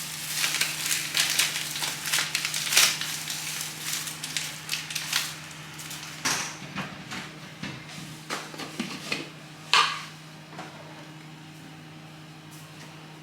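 Everyday household handling noises: rustling, light clicks and a couple of sharper knocks, thinning out after about six seconds, over a steady low hum in the room.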